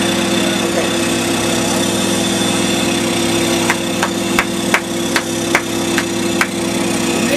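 A vehicle engine running steadily at idle, with a series of about eight sharp metallic clicks or knocks at roughly two to three a second through the second half.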